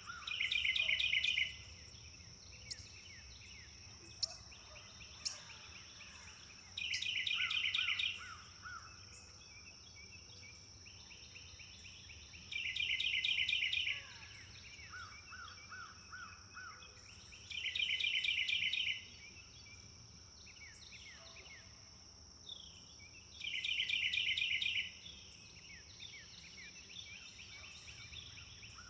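Forest birds singing: one bird repeats a loud, fast phrase of rapid notes, about a second long, five times at intervals of five to six seconds. Quieter chirps and a lower run of four or five notes come in between, over a steady high-pitched whine.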